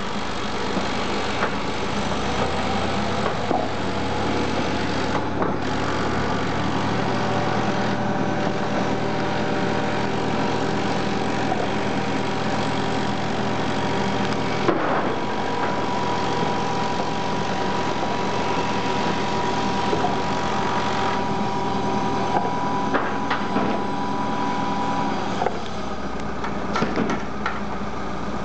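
Heavy vehicle engine idling steadily, with a few sharp knocks near the middle and toward the end.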